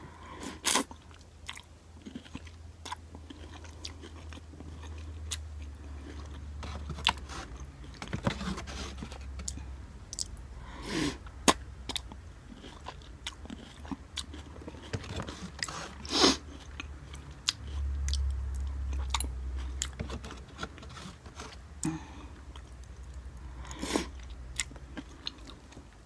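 Close-miked chewing and biting of instant ramen noodles, with many small wet clicks and a few sharper, louder mouth sounds, the loudest about 16 seconds in. A low rumble runs underneath, strongest about two-thirds of the way through.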